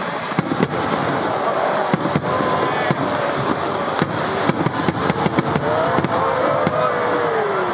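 Fireworks going off in a rapid, irregular string of loud bangs and crackles, with music running underneath.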